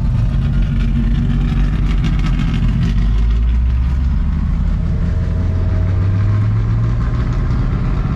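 Big-block V8 of a Chevrolet El Camino idling, a steady low engine note that rises slightly for a moment about five seconds in.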